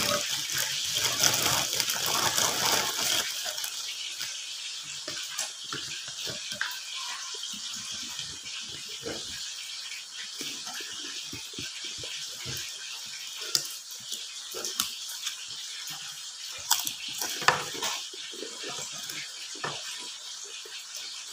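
Close-up eating sounds: wet chewing, lip smacks and small clicks from a man eating rice and vegetables with his fingers, over a steady hiss. A louder, brighter rustle fills the first three seconds.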